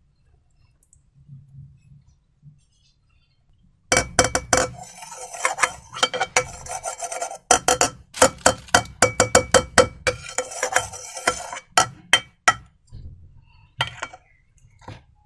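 Slime being stirred and squished, giving a dense run of sticky clicks and crackles that starts about four seconds in and thins to scattered clicks near the end.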